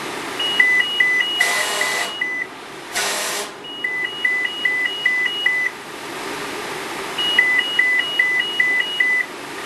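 Fire radio evacuation alert tones: a high beep and a lower beep alternating in three runs of about five pairs each. Two short bursts of radio static fall between the first runs. The tones signal an emergency evacuation of the structure.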